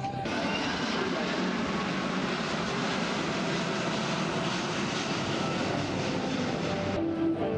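Airbus A380 flying past, its four jet engines making a steady, loud roar. The roar starts suddenly just after the beginning and cuts off sharply near the end.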